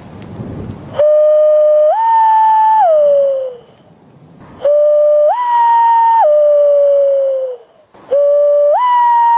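Loon wail imitated by blowing through cupped hands: three long, clear whistled calls, each starting on a lower note, stepping up to a higher one, then dropping back and sliding down at the end. Breathy blowing is heard before the first call.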